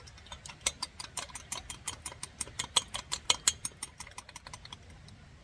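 A fast, uneven run of sharp taps or clicks, about eight to ten a second, for about four and a half seconds.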